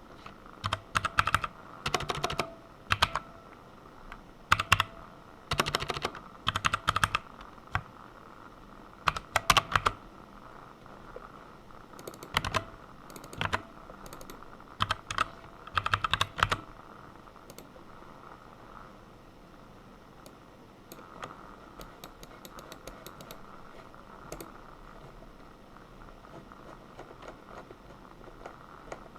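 Typing on a computer keyboard: quick runs of key clicks in short bursts with pauses between, thinning to a few scattered keystrokes after about seventeen seconds.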